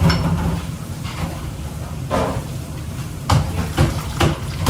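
Cookware and utensils knocking and clattering a few times over a steady low rumble.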